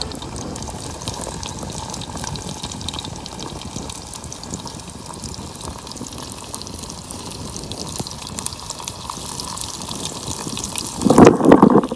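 Potato fries frying in hot oil over a campfire, a steady sizzle with many small crackles. A louder burst of noise comes near the end.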